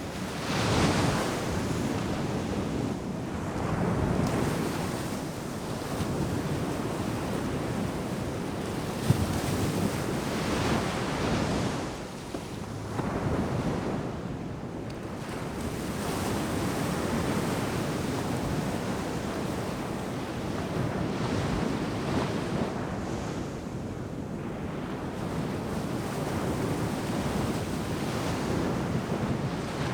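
Ocean surf breaking on a sandy beach: a continuous wash of waves that surges and eases every few seconds as successive breakers roll in.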